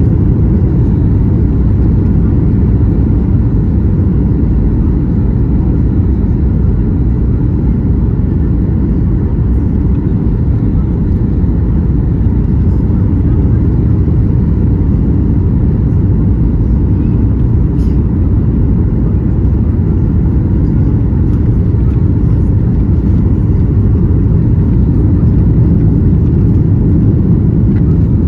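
Steady low rumble inside a Boeing 737-800's cabin: engine and rushing-air noise heard from a passenger seat.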